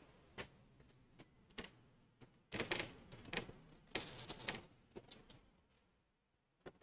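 Faint scattered clicks and handling noises, with two short clusters of knocks and rustles in the middle.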